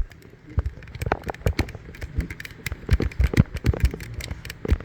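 Irregular clicks, taps and knocks of an extension cord and cables being handled, growing busier about three seconds in.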